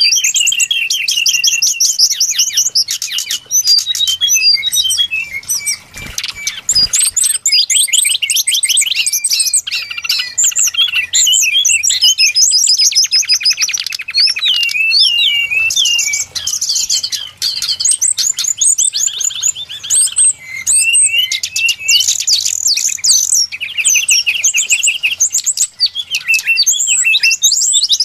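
Brown-chested jungle flycatcher song used as a bird-lure call: a continuous, loud stream of rapid high chirps, trills and quick warbling glides with only brief gaps.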